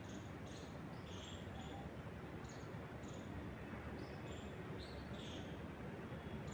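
Small birds chirping in short, high notes, several a second and irregularly spaced, over a steady low rush of wind in the trees.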